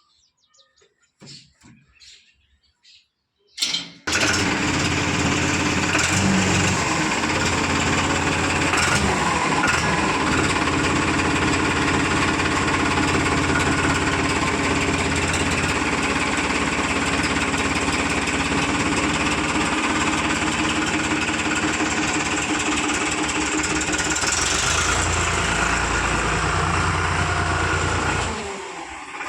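Heavy diesel engine running steadily and loud, close up. It comes in suddenly about four seconds in, right after a short knock, and drops in level near the end.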